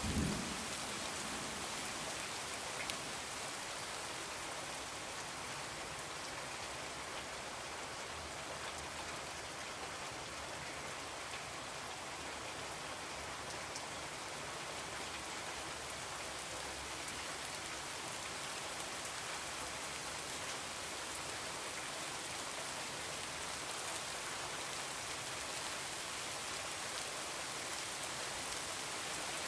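Steady heavy rain falling, an even hiss of drops on surfaces, with the tail of a thunder rumble dying away right at the start.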